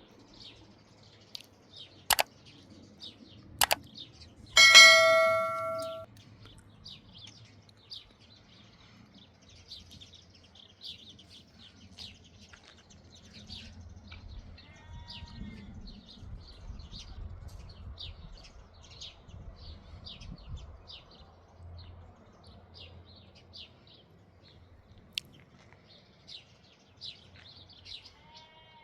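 Birds chirping throughout, in many short high calls. Near the start come two sharp clicks, then one loud ringing strike like a bell, dying away over about a second and a half.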